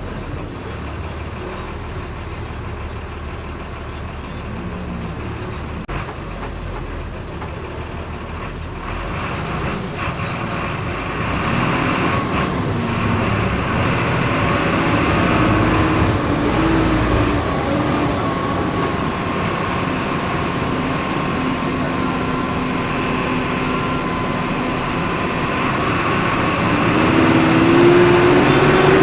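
Volkswagen 17.230 EOD city bus engine running under load, heard from inside the bus. It accelerates with rising pitch in the middle, and again, louder, near the end.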